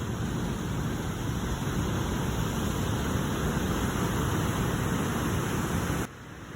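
Sea waves washing on the shore, a steady rushing noise heavy in the low end, which drops away sharply about six seconds in.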